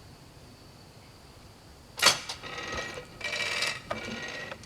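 A sharp metal clank about two seconds in, then metallic grating and ratcheting from the sawmill carriage's iron mechanism.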